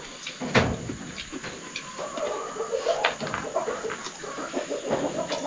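Birds calling in short scattered calls, with a single sharp knock about half a second in.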